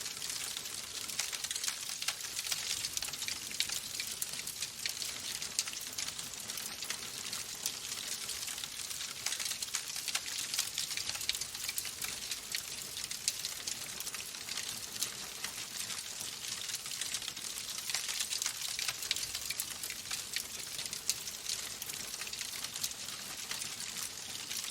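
Wood fire crackling in a fireplace: a steady hiss dense with small crackles and pops.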